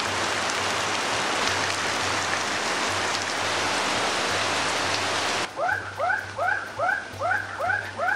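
Heavy rain pours steadily and cuts off abruptly about five and a half seconds in. It gives way to an animal calling in a quick, regular run of short rising chirps, about two or three a second.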